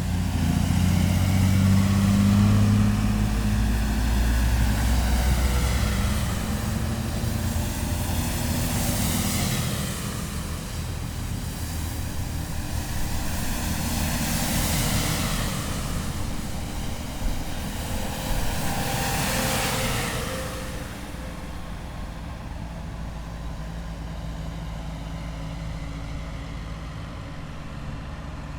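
A column of heavy military vehicles driving past, with diesel engines rumbling loudly at first. Several more vehicles go by one after another in swells of engine and tyre noise. After about twenty seconds it settles to a quieter, more distant rumble.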